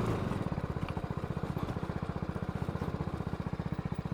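BMW G310GS single-cylinder motorcycle engine idling with an even, steady pulse.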